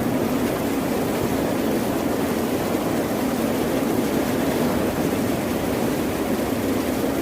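Ocean surf: a steady, continuous roar of waves, with no single break standing out.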